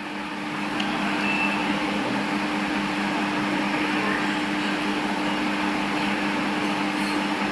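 A motor running steadily: an even hum with a constant low drone underneath a wash of noise.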